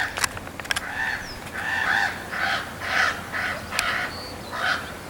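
Corvids cawing: a run of short, arched caws, about two a second, the calls heard as 'what?'.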